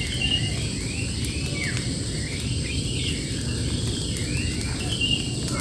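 A bird calling in a series of short, arched chirps, about two a second, over a steady low rumble.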